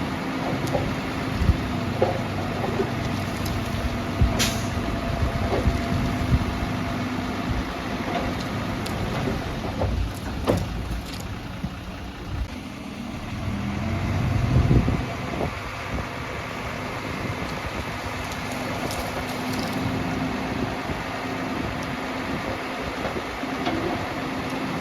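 Heavy diesel earthmoving machine running steadily, a low drone with scattered knocks and clanks. There is a short sharp sound about four seconds in and a brief louder swell about fifteen seconds in.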